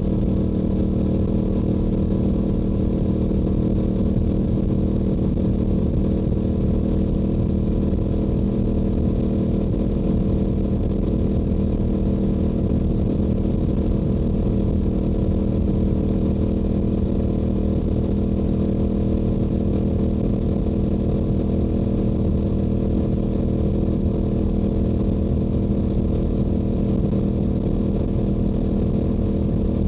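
Stock Yamaha YZF-R7's 689 cc parallel-twin engine and exhaust running at a steady highway cruise, holding one even pitch throughout.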